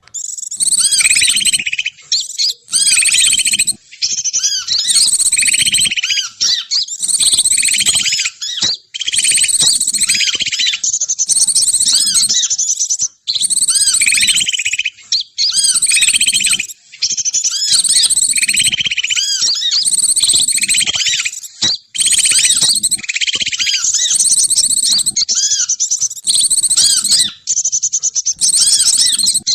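Bird-trapping lure call recording: loud, rapid high-pitched chirping and twittering of small birds in repeating phrases of a second or two, separated by brief gaps.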